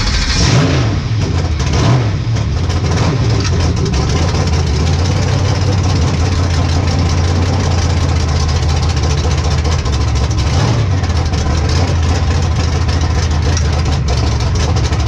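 Drag race car engine idling loudly and unevenly, blipped up in pitch a few times in the first three seconds and once more around eleven seconds in, heard from inside the car.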